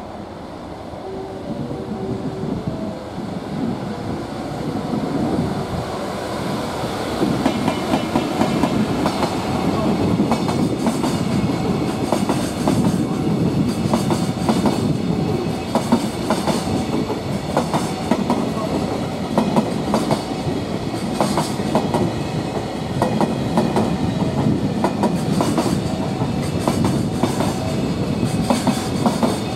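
A container freight train hauled by an EF210 electric locomotive passes close by, its wheels clacking over the rail joints in a steady repeating rhythm over a rumble. It grows louder over the first several seconds as the train draws level, then stays loud as the container wagons roll past.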